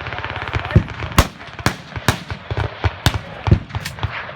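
A fast crackling string of reports, then about ten sharp, irregularly spaced bangs with echo between them.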